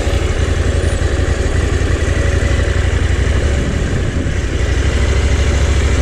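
Motorcycle engine running steadily, a loud low pulsing note with a haze of noise above it.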